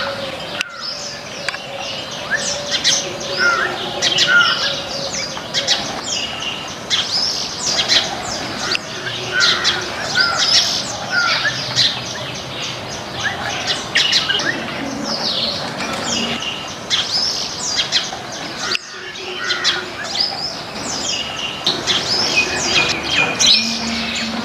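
Backyard birds chirping in a dense, continuous chorus of many overlapping short chirps and squeaky calls, broken twice by a brief gap.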